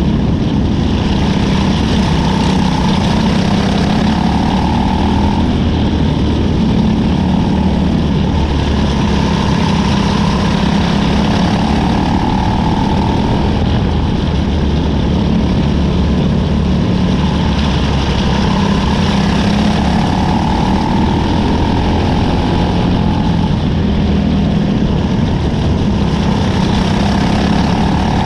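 Engine of a cadet winged sprint car at race pace, heard on board. Its revs rise and fall in a repeating cycle about every eight seconds as it laps the short oval.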